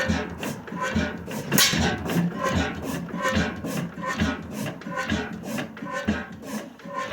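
1898 Crossley hot-tube-ignition gas engine running, with a rhythmic exhaust beat about once a second and mechanical clatter between the beats.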